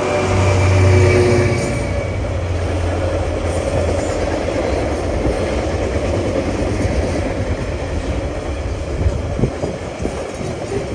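Loaded container wagons of a Class 66-hauled freight train rolling past: a steady heavy rumble with wheel clatter, and a few sharp clicks near the end. The departing locomotive's engine note fades out in the first two seconds.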